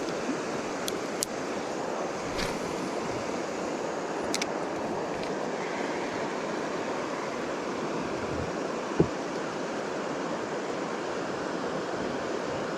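River water rushing steadily past the boat, with a few light clicks and a single knock about nine seconds in.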